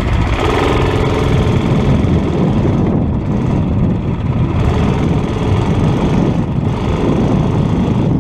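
Murray mini bike's 2.5 hp Tecumseh engine running steadily under way, its freshly adjusted carburetor drawing air with no air filter fitted.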